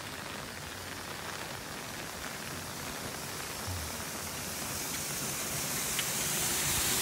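Steady rain falling on pavement and grass, with the rush of water pouring into a curbside storm drain growing steadily louder toward the end.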